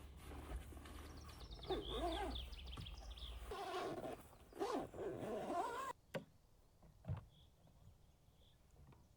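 Animal calls: a quick run of high bird notes about a second and a half in, then several wavering, bending cries. The sound cuts off abruptly about six seconds in, leaving quiet broken by two sharp clicks and faint high chirps.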